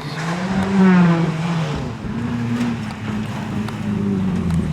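Modified 4x4 tuff truck engine revving up and down as the truck works through the course, its pitch rising and falling several times; loudest about a second in.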